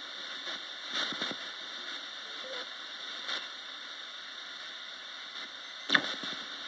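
Roberts radio used as a ghost box, giving a steady hiss of static broken by short bursts of sound, about a second in, at about three seconds, and loudest near the end.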